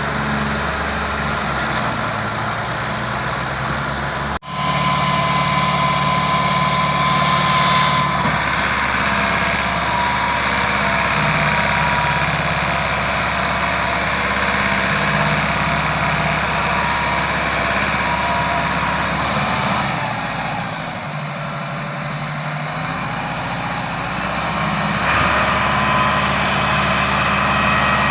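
Tractor's diesel engine running steadily. There is a sharp break about four seconds in, after which it is louder. It drops somewhat around twenty seconds in and picks up again near twenty-five seconds.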